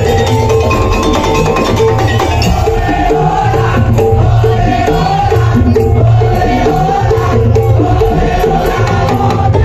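Madurese daul (tong-tong) music played live and loud: drums and wooden percussion keep a fast, even rhythm under a wavering melody line.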